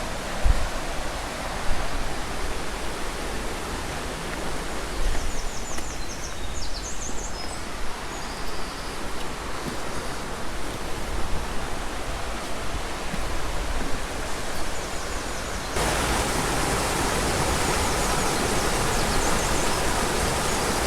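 Steady rushing of a flowing stream with open-air ambience, and brief high chirping from about five to eight seconds in. Near the end the rushing abruptly becomes louder and brighter.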